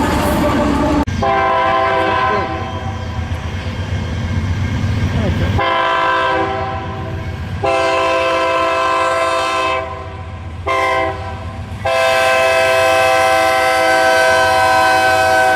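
Freight diesel locomotive's multi-chime air horn sounding the grade-crossing signal: two long blasts, a short one, then a final long one held past the end. Low locomotive and rail rumble runs beneath the first blasts.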